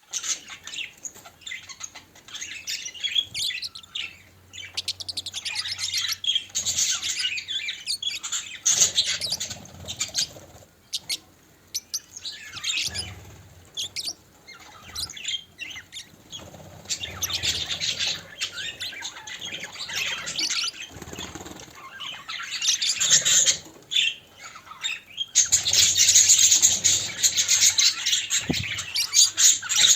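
Budgerigars chattering and chirping continuously, a busy mix of short warbling calls, with wing flutters mixed in; the chatter grows densest near the end.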